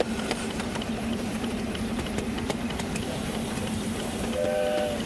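Tinkerbell, a 7¼-inch gauge miniature steam locomotive, running along the track as heard from the footplate: a steady running noise with scattered sharp clicks. A short whistling tone comes in about four seconds in.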